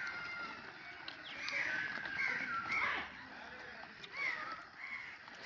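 Birds calling outdoors: a string of short, arching calls, loudest about two to three seconds in, with fainter calls near the end.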